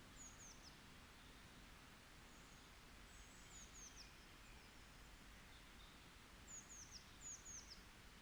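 Faint forest ambience: a small bird gives high, thin, down-slurred chirps in quick runs of two or three, several times, over a soft steady hiss.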